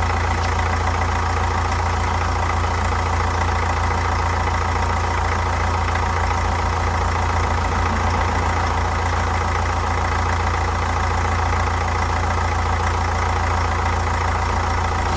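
Vauxhall Meriva B car engine idling steadily.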